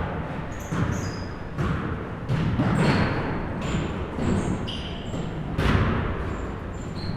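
Basketball being played in a gym: a ball bouncing on the court, with irregular thuds and short, high sneaker squeaks.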